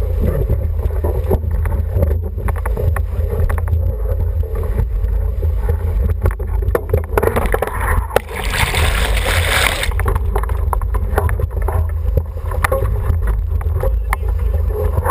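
Wind buffeting the microphone over water rushing along the hull of an International 14 racing dinghy under sail, with scattered small knocks. About eight seconds in, a louder rushing hiss lasts about two seconds.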